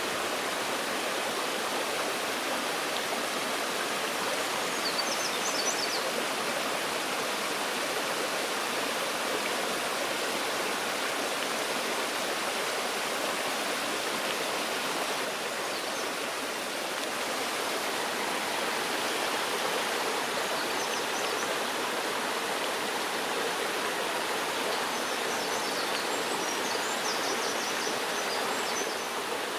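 Stream water running steadily. A small bird sings faintly over it in short, rapid, high-pitched phrases, about five seconds in and again twice in the second half.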